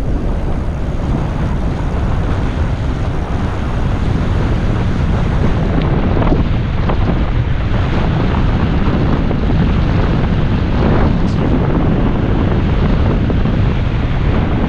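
Wind buffeting a GoPro's microphone on a fast-moving bicycle, a loud steady rumble of rushing air with a few faint knocks.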